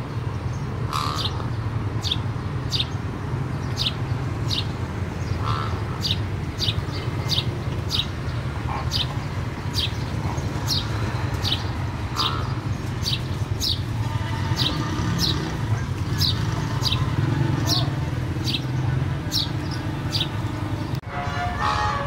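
A small bird chirping over and over, a short high chirp roughly every half second, over a steady low hum.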